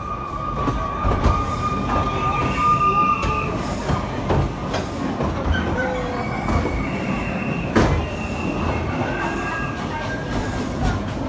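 Efteling park train running on its track, its wheels squealing on the rails in long drawn-out tones over a steady rumble, with a sharp knock about eight seconds in.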